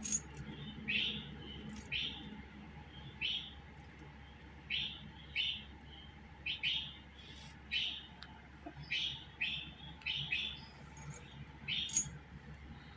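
Budgerigar giving short chirping calls, roughly one a second at an uneven pace, a few with sharp clicky edges, over a faint steady low hum.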